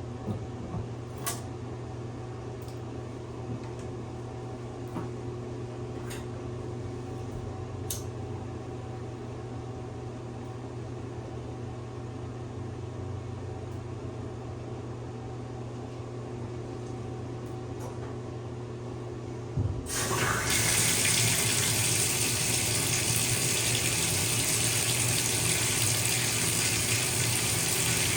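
A low steady hum with a few faint clicks. About two-thirds of the way in, a knock, and the bathtub tap comes on: water gushes steadily into the tub, much louder than before.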